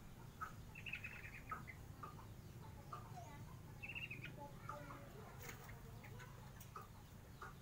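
Faint background bird chirps, with two short rapid trills, one about a second in and one about four seconds in, over a low steady rumble.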